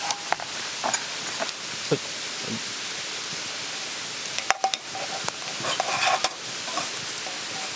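Steady rushing hiss of a mountain stream, with clusters of metal clinks and scrapes from cookware and utensils a little past halfway through.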